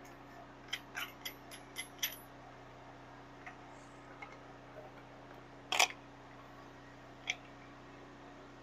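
Light clicks and taps of tools and metal being handled: a quick run of about six in the first two seconds, a louder one just before six seconds in, and another a little later.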